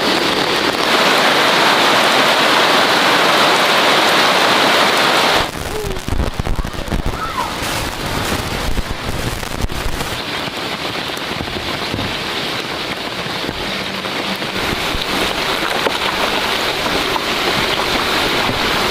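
Steady rain. It is dense for about the first five seconds, then cuts off suddenly to lighter, patchier rain with scattered low knocks.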